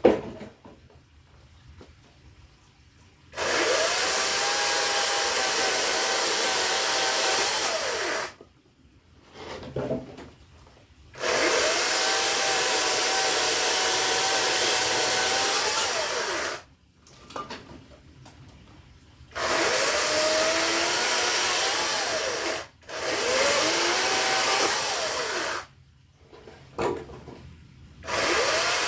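Electric saw cutting firewood in repeated bursts of a few seconds each, starting and stopping abruptly, with a whine that sags and recovers under the harsh cutting noise.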